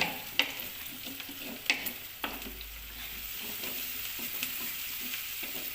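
Onions frying in oil in a clay cooking pot, with a steady sizzle while they are stirred; the stirring utensil gives a few sharp knocks against the pot, near the start and in the first couple of seconds.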